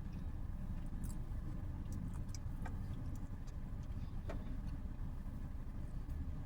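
Steady low background rumble with a few faint, short clicks and smacks of someone chewing a sandwich.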